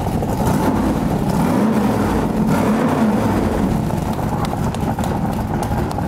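AC Cobra 427's Roush-tuned 7-litre Ford V8 running, revved twice in quick succession about a second and a half in, then dropping back to idle.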